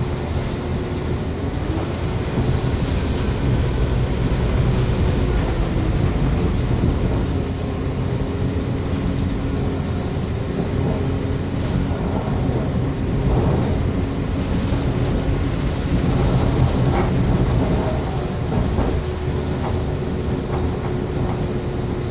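Passenger train running along the line, heard from on board: a steady rumble of wheels on the track with a low steady hum.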